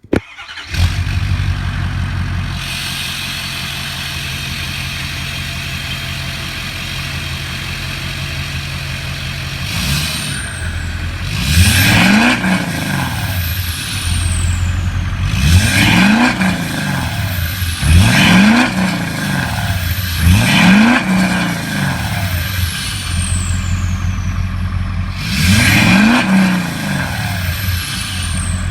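Ford F-250 diesel V8 with a 4-inch straight exhaust starting up less than a second in, then idling steadily. From about ten seconds in it is revved about six times, each blip rising and falling in pitch and followed by a falling high whistle.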